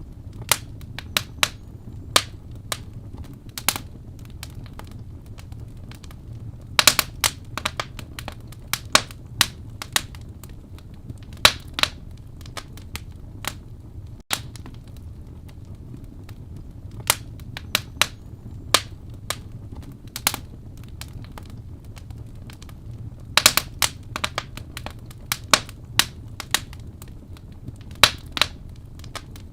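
Wood fire burning in a fireplace, crackling with irregular sharp pops and snaps, some in quick clusters, over a steady low rumble of the flames.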